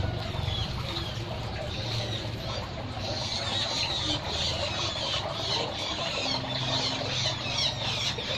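Birds chirping in the background: many short, high calls that grow busier partway through, over a steady outdoor background with a low hum.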